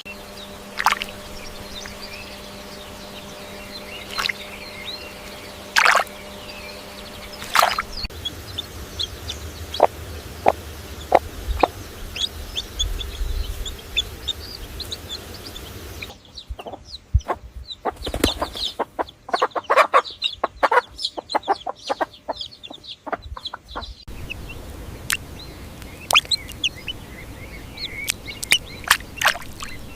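Chickens clucking and calling in short, sharp notes, across several spliced clips whose background changes abruptly about every eight seconds. The middle stretch is the busiest.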